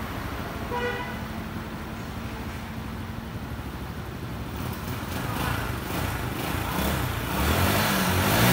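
Running vehicle noise with a short horn beep about a second in, then an engine revving up, louder and rising in pitch, near the end.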